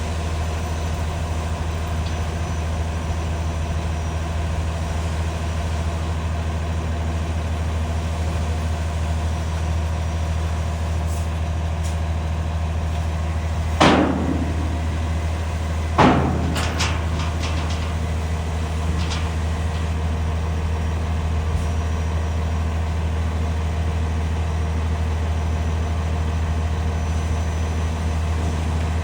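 8.9 L PACCAR PX9 diesel engine of a Kenworth T370 dump truck idling steadily, with a low, even hum. Two short, loud sharp sounds come about two seconds apart just under halfway through, the second followed by a few faint clicks.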